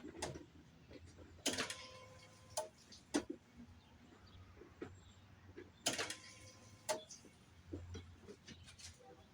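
Scattered light clicks and knocks, with two sharper metallic clanks that each ring briefly, about a second and a half in and again about six seconds in.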